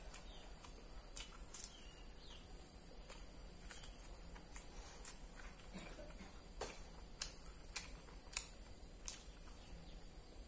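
A person chewing crispy fried tofu stuffed with meatball: faint mouth noises and soft crunches, with a few sharper crunchy clicks in the second half, over a steady faint hiss.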